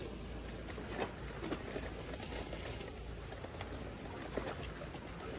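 Steady outdoor background noise with a faint high steady tone, broken by a few light knocks or taps.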